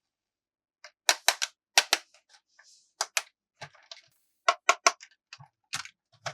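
Hard plastic toy pieces being handled, giving sharp clicks and taps in quick clusters of two or three.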